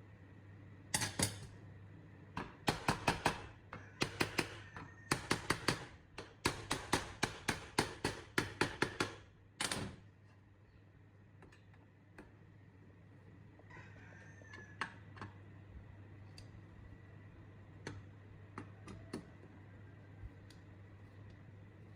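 Hand tools working on metal parts: bursts of quick, sharp clicks and taps for the first ten seconds or so, then a few scattered ticks, over a steady low hum.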